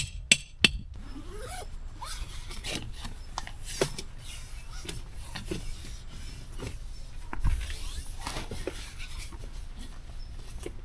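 Tent fabric rustling and scraping, with scattered light clicks and knocks, while a tent is being pitched.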